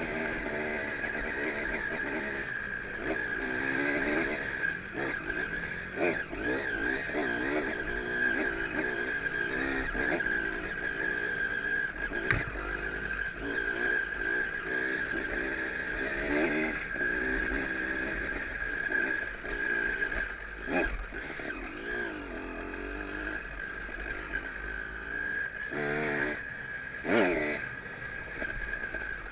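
Trail motorcycle engine running under way, its revs rising and falling continually, with a few sharp knocks along the way.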